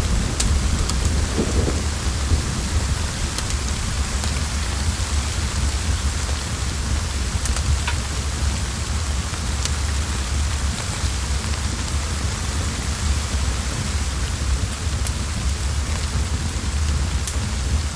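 Steady heavy rain with a deep continuous rumble underneath, like distant thunder, and a few sharp clicks scattered through it.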